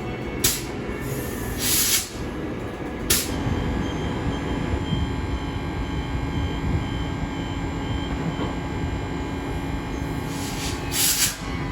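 Electric passenger train at the station, its steady rumble and hum broken by short, sharp hissing bursts about half a second in, near two and three seconds, and again near the end.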